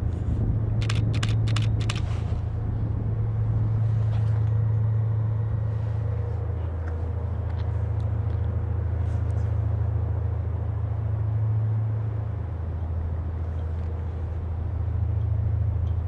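A tugboat's diesel engines running, a steady low hum that swells and eases slightly, with a few short clicks about a second in.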